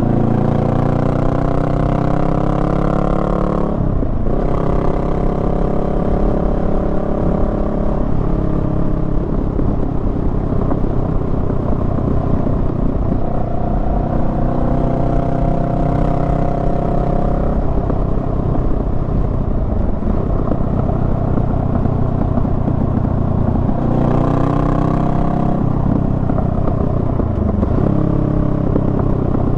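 Honda Rebel 500's parallel-twin engine under way: it revs up, drops in pitch at a gear change about four seconds in, holds a steady pitch for a while, then winds down on deceleration. It climbs again and shifts near the end, over a steady rush of wind.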